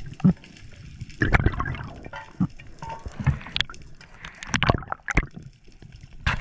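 Water gurgling and sloshing, broken by irregular splashes and knocks.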